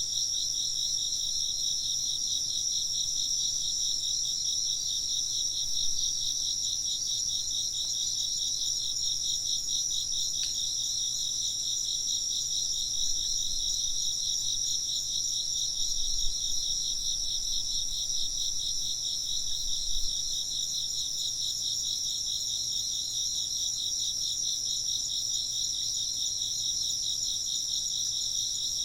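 A dense chorus of crickets and other insects, trilling steadily at two high pitches with a fast, even pulse.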